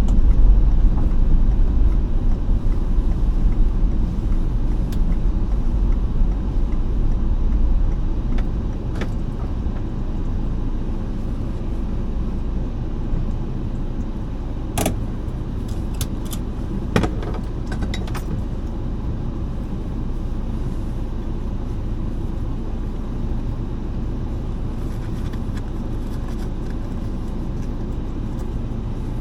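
Steady low rumble of a moving car, heard from inside, with road and engine noise; the rumble is heavier for the first several seconds and then eases. A few light clicks or rattles come in the middle.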